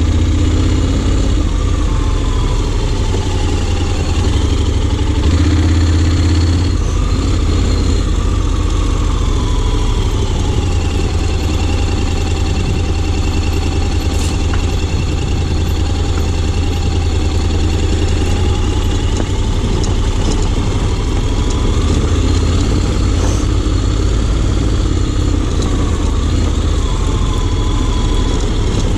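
Honda X-ADV 750's parallel-twin engine running at low revs, its pitch rising and falling gently as the throttle changes.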